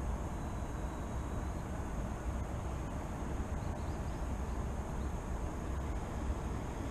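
Steady outdoor city ambience: an even, low rumble of distant traffic with no single event standing out.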